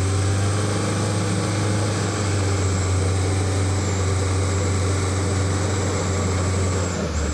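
Truck engine running steadily with a deep drone, with a thin high whine held above it.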